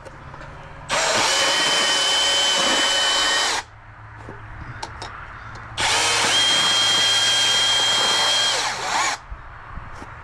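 Portable power bandsaw run twice, about three seconds each time, its motor whining up to speed at the start of each run and then cutting steadily before it stops.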